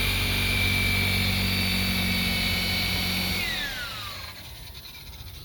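DeWalt DWP849X rotary polisher running steadily with a high whine while compounding boat gelcoat. About three and a half seconds in it is switched off, and its pitch falls as it spins down.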